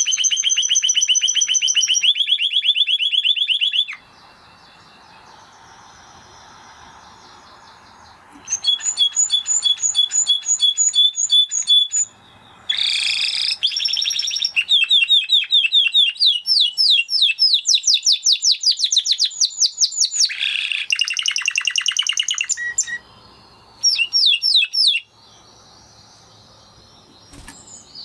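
Spanish Timbrado canary singing: long, rapid trills of repeated notes, with a few seconds' pause twice.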